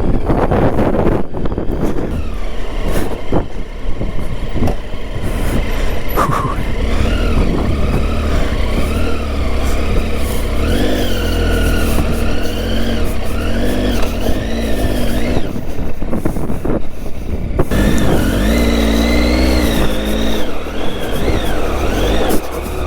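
Triumph Tiger 800's three-cylinder engine revving up and down over and over as the rear tyre digs and spins in a muddy rut, with a short drop in revs about two-thirds of the way through.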